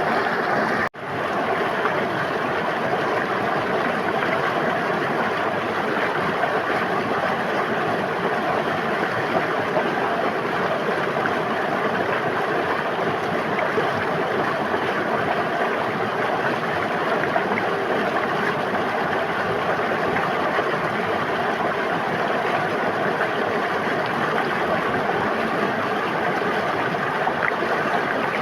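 River water flowing and babbling steadily, with a momentary cut in the sound about a second in.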